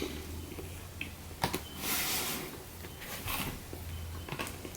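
A person eating a crispy pan-fried fish sandwich close to the microphone: bites and chewing with breaths through the nose, in short irregular bursts, the strongest about two seconds in. A low hum runs underneath and stops shortly before the end.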